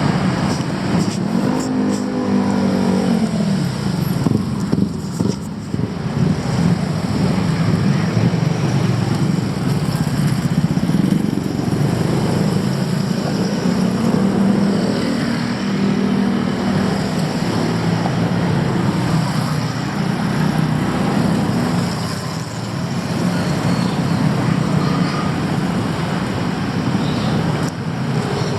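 Road traffic: cars and motorcycles running close by, with a steady engine hum that slowly shifts in pitch over a constant wash of traffic noise.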